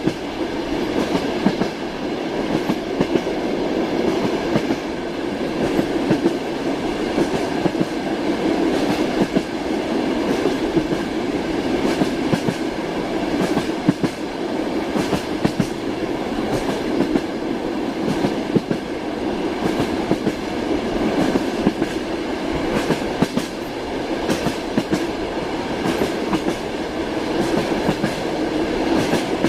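Train wheels clattering over the rail joints, with a steady rumble from the moving train and frequent sharp clicks throughout.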